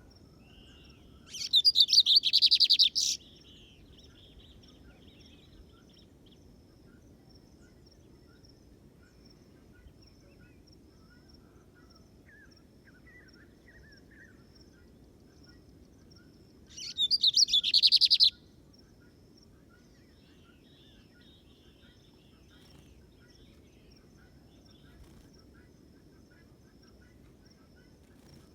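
Lined seedeater (bigode) singing two short bursts of rapid, buzzy high notes, each about two seconds long and some fifteen seconds apart. A faint steady high tone and a few faint distant chirps run under and between them.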